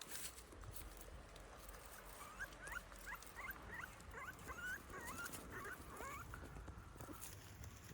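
A young puppy or fox cub whimpering: a quick run of short, high squeaks and whines lasting about four seconds.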